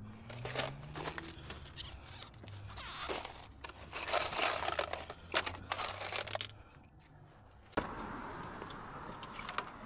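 Irregular scraping and rustling with scattered sharp clicks, densest in the middle, and one sharp click near the end followed by a steady hiss.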